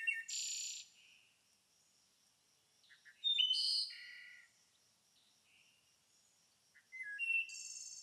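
Birds chirping and whistling in three short bursts: one at the start, one about three seconds in and one near the end, with quiet between.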